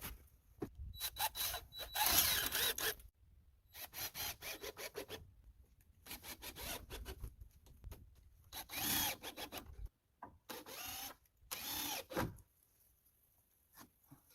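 A saw cutting wood, in several short runs of quick rasping strokes with brief pauses between them.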